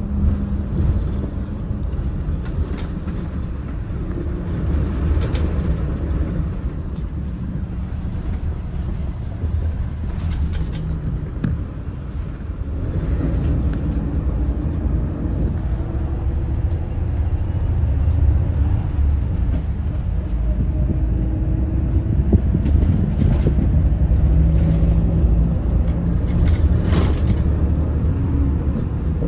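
Daewoo FX116 coach's diesel engine running under load as the bus drives, a deep steady rumble whose pitch shifts now and then; it gets louder about halfway through.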